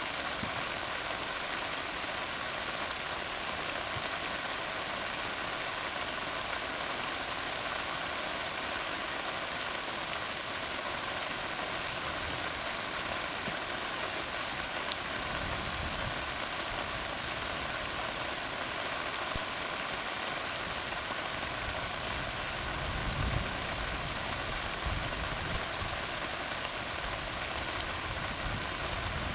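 Steady rain falling on a tar road: a dense, even hiss full of fine drop ticks. A low rumble swells about halfway through and again near the end.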